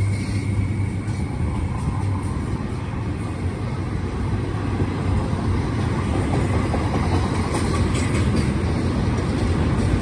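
Double-stack intermodal container train rolling past, a steady rumble of freight-car wheels on the rails as it gathers speed downgrade over the summit.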